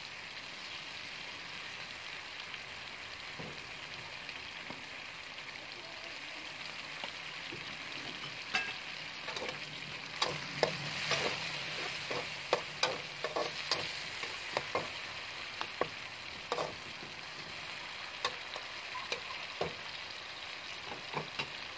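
Diced chicken frying in oil in a steel wok, with a steady sizzling hiss. From about eight seconds in, a spatula stirs the chicken, giving many short, sharp clacks against the wok.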